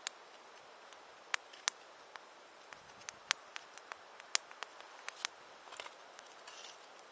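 Wood campfire crackling: an irregular run of sharp pops and snaps over a faint steady hiss.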